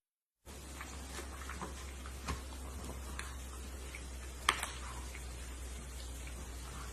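Quiet room tone with a steady low hum and scattered small clicks and ticks, the sharpest one about four and a half seconds in.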